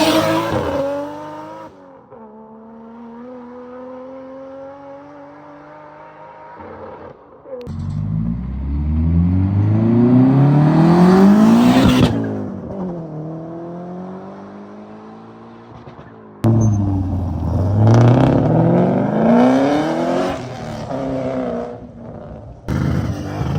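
Car engines revving up hard in a string of short clips. The pitch climbs steadily for a few seconds, then drops away as the throttle is lifted. There are sudden cuts between clips.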